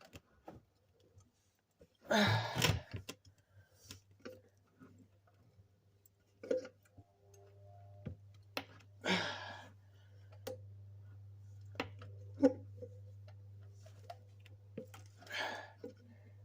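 Scattered clicks, knocks and noisy rustling from hands-on work on a car, with louder scraping bursts about two seconds in and again around nine seconds. A faint steady low hum joins about halfway through.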